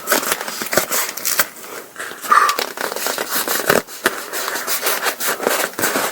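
Ripstop nylon fabric of a paraglider wing and a repair patch crackling and rustling as they are handled and smoothed down, a dense run of crinkles and scratches, with a short squeak about two seconds in.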